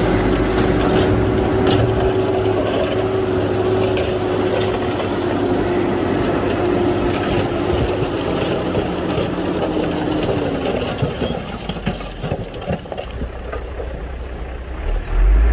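Bulldozer's diesel engine running steadily, its pitch dropping away about nine to eleven seconds in. Through the second half there is irregular metallic clattering and crackling, like tracks and rock.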